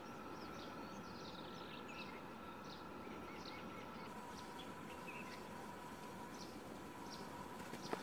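Short, high bird chirps repeating about every half second over a faint steady background tone, with a sharp tap near the end.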